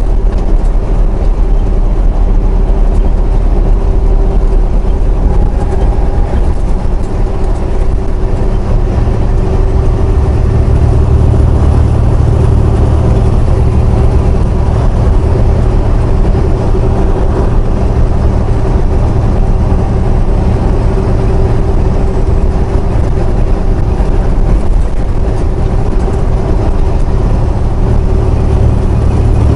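Semi truck's diesel engine and road noise droning steadily inside the cab while driving; the low rumble rises in pitch about nine seconds in.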